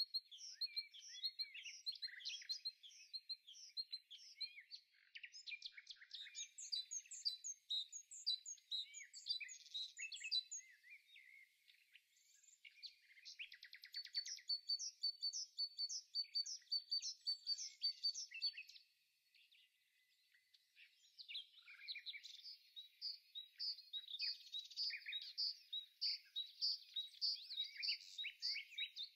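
Small songbirds singing: a dense, continuous run of quick chirps and trills that breaks off for about two seconds about two-thirds of the way through.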